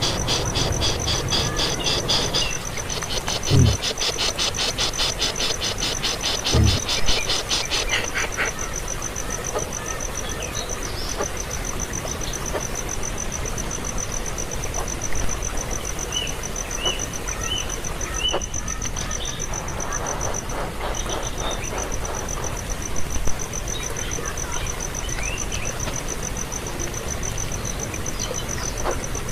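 Insects trilling steadily at a high pitch, with a second, faster pulsing buzz over the first eight seconds and a few faint short chirps later on.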